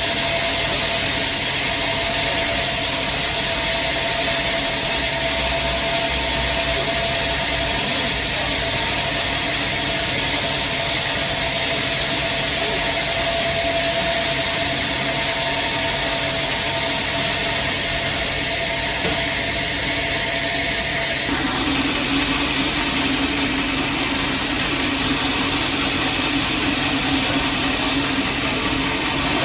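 Sawmill machinery running steadily with a constant high whine, the sound shifting abruptly to a lower, heavier hum about two-thirds of the way through.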